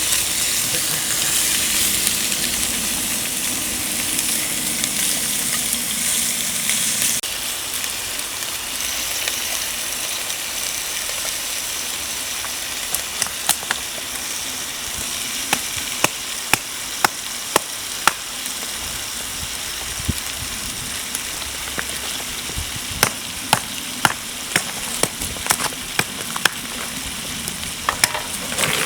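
Food sizzling steadily in a hot pan. A lower rumble under the sizzle drops away about seven seconds in, and from about halfway on sharp clicks and taps come at irregular intervals.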